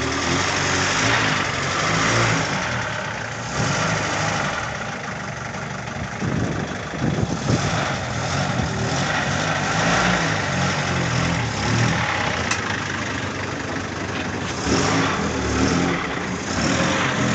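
GAZ-21 Volga engine idling steadily through its reworked exhaust.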